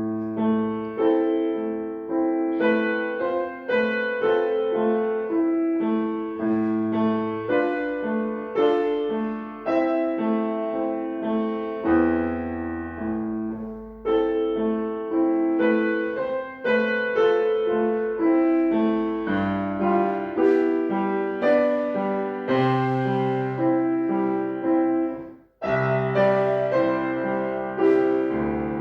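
Acoustic piano played solo: a melody over a steadily repeated accompanying note, with a brief break about 25 seconds in before the playing picks up again.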